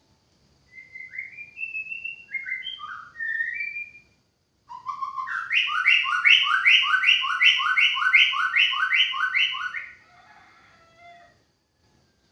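White-rumped shama (murai batu) singing: a phrase of varied whistled notes sliding up and down, then after a short pause a fast run of about a dozen repeated notes, ending with a few faint notes.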